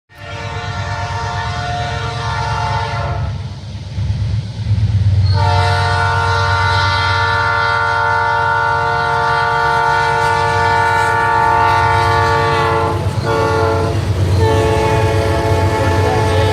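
Locomotive air horn sounding a chord in the grade-crossing pattern: long, long, short, long. Under it is the steady low rumble of the approaching diesel locomotive.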